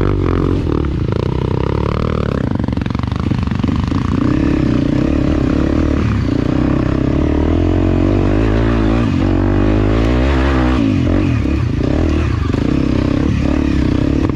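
Enduro dirt bike engine running continuously, its pitch rising and falling with the throttle.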